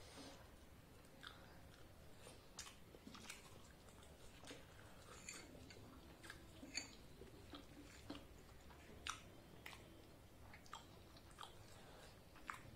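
Faint close-miked chewing of fried luchi bread with ghugni: scattered soft wet clicks and light crunches, with a few sharper ones.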